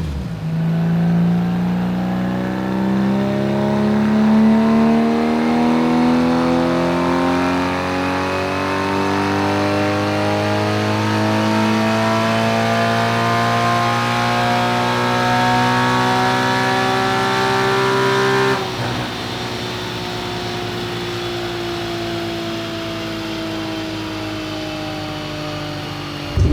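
Porsche 981 Cayman S 3.4-litre flat-six through an Armytrix valvetronic exhaust, accelerating under load with the revs climbing steadily for about eighteen seconds. Then the throttle is lifted: the sound drops suddenly and the revs fall slowly as the car coasts.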